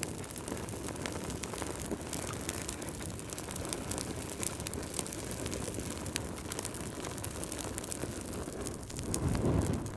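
Fireplace fire crackling, with frequent sharp pops and snaps over a steady rush of flames. A low surge swells briefly near the end.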